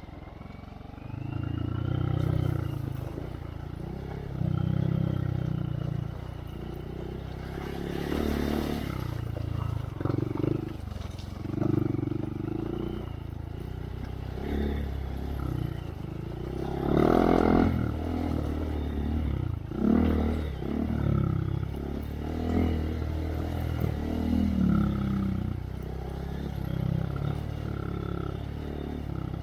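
Honda Monkey's 125 cc single-cylinder engine through a Yoshimura RS3 exhaust, revving up and backing off in repeated surges every second or two. There are a few louder, noisier bursts about a third of the way in and around two-thirds through.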